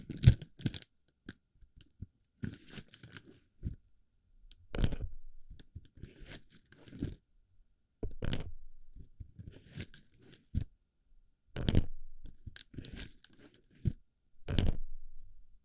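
Plastic airsoft BB pellets clattering and crackling as they are packed into a microphone's ear. The sound comes in irregular bursts of clicks every second or two, with short quiet gaps between.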